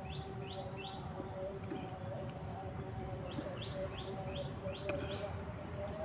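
A bird calling: two runs of quick falling chirps, about three a second, with a brief high shrill note between the runs and another near the end of the second run.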